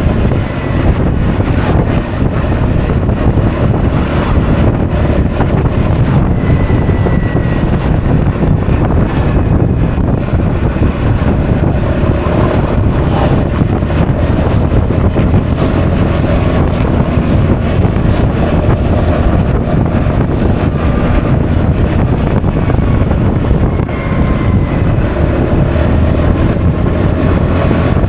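Wind rushing over an action camera's microphone on a moving Honda Forza 350 scooter, with the scooter's single-cylinder engine running underneath; a faint engine note drifts up and down in pitch.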